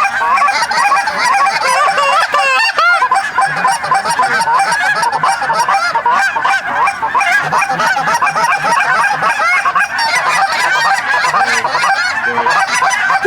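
A large flock of lesser Canada geese honking close by, many calls overlapping without a break.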